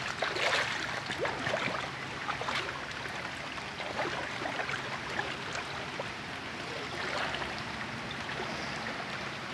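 Steady rushing of fast-flowing floodwater, with scattered light ticks and taps over it.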